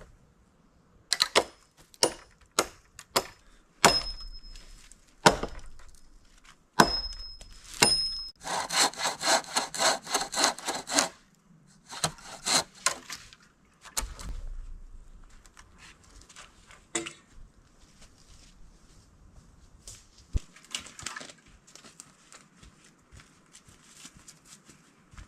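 Wood being cut with hand tools. First comes a series of sharp chopping strikes, several with a brief metallic ring from the blade. Then there are a few seconds of quick, even sawing strokes, about five a second, followed by scattered knocks and lighter scraping.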